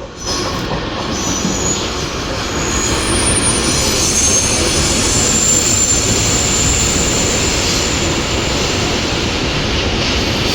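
A train moving through the station: a steady loud rumble of wheels on rail, with thin high wheel squeals coming and going above it.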